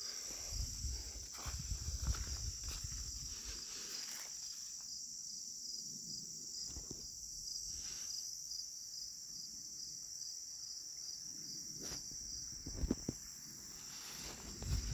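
Steady high-pitched insect chorus buzzing continuously, with low rumbles and a few scattered clicks in the first few seconds and again near the end.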